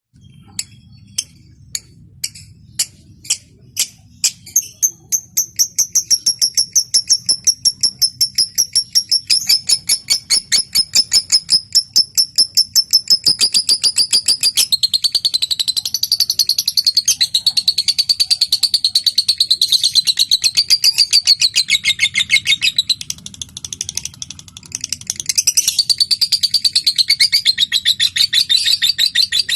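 Lovebird singing: a few separate sharp ticks that speed up within a few seconds into a fast, even run of ticking (the 'ngetik' call). About 15 s in, this turns into a long, continuous rattling trill (the 'ngekek' song), which breaks off briefly a little after 20 s and then resumes.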